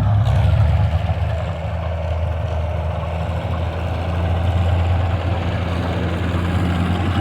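A tractor engine idling steadily, its low hum dropping slightly in pitch in the first second and then holding even.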